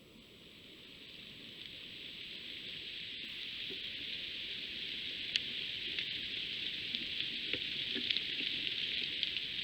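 Rain hissing steadily, swelling up over the first few seconds, with scattered drips ticking through it.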